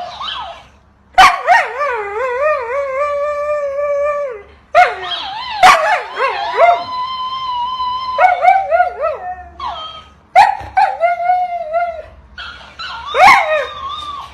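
A dog howling back in a string of long wavering calls, about six of them, the longest held for around three seconds, like a husky 'talking' in answer to a greeting.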